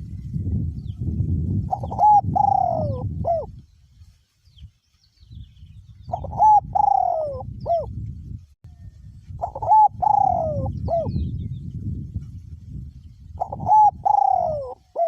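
Male spotted dove cooing: four phrases, each a short note, a longer note falling in pitch and a short closing note. Wind rumbles on the microphone in gusts beneath the calls.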